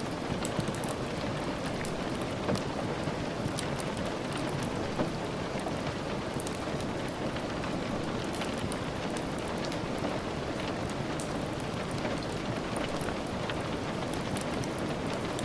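Steady rain falling, mixed with the soft crackle of a wood fire: many small sharp ticks and pops scattered over the even hiss.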